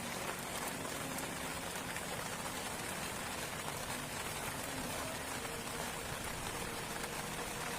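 Heavy rain falling steadily on a surface, a constant hiss with scattered drop ticks.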